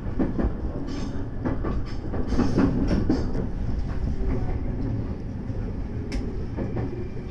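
JR West 223 series electric train running, heard from inside the front car: a steady rumble of wheels on rail with irregular clacks as the wheels cross points and rail joints. A faint steady tone joins near the end.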